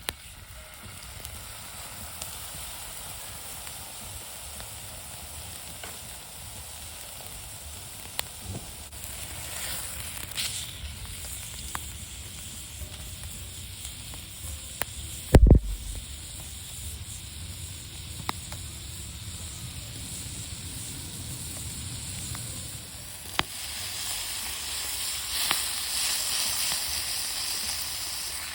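Meat sizzling on a thick iron griddle plate over a wood fire, with scattered sharp crackles. A single dull thump comes about halfway through, and the sizzle grows louder near the end.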